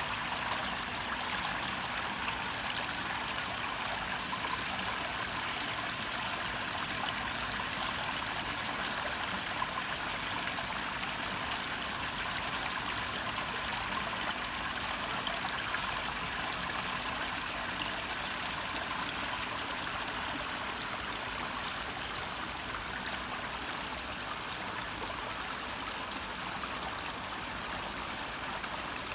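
Small garden waterfall splashing and trickling steadily, a constant hiss of falling and running water.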